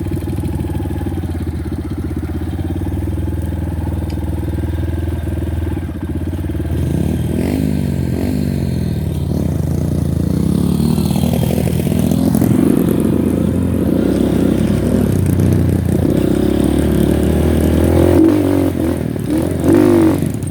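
Honda Win single-cylinder motorcycle engine running while riding, steady at first, then rising and falling in pitch from about seven seconds in as the throttle and gears change.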